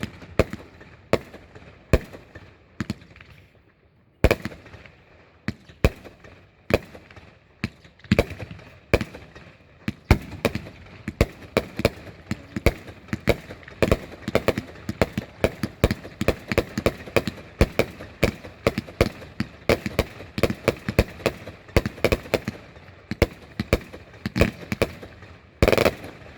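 Fireworks going off: a string of sharp bangs and crackling pops, a few a second at first and packing closer together from about ten seconds in, with a longer, louder burst near the end.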